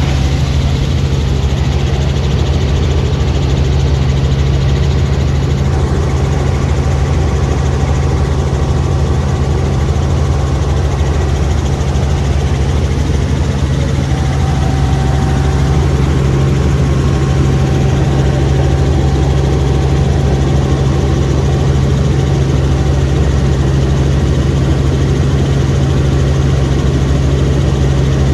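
Helicopter heard from aboard in flight: a steady, loud, low drone of rotor and engine that holds even throughout.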